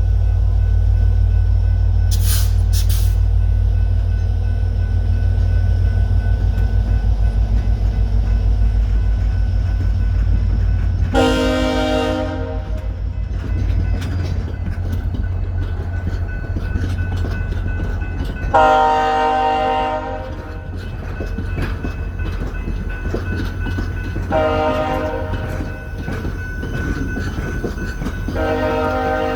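VIA Rail diesel locomotive running with a steady low rumble while it sounds its multi-note air horn four times, each blast a second or so long, the last one running on at the end.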